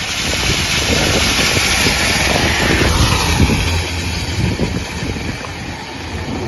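Steady rush of heavy rain and wind, with the low rumble of wind on the microphone and vehicles passing on a waterlogged road; the hiss eases a little about halfway through.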